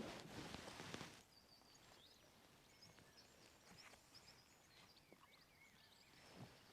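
Faint birdsong: many short, high chirps and twitters, after a brief burst of noise in the first second.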